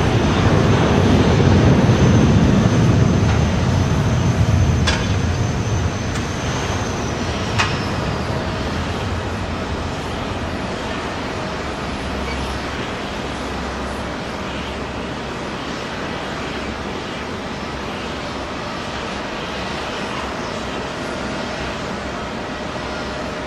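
Airliner jet engines rumbling loudly, fading over the first several seconds, with a high engine whine that drops in pitch about seven seconds in. Two short clicks come midway, and a steady, quieter wash of engine noise follows.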